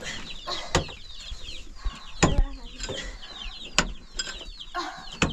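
Many birds peeping in short, high, falling chirps, several a second, with a few sharp knocks scattered through.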